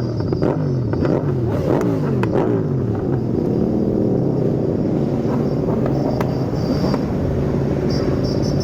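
Many motorcycle engines running together in a large group ride, several revving so that their notes rise and fall across one another, with a steadier engine note underneath in the second half.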